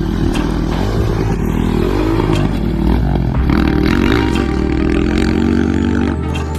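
Motocross bike engine revving, its pitch rising and falling several times.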